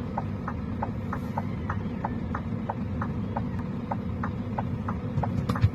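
A steady low engine rumble with a short, regular ticking about three times a second.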